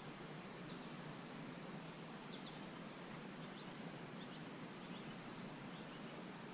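Several faint, short, high bird chirps scattered through a steady background hiss.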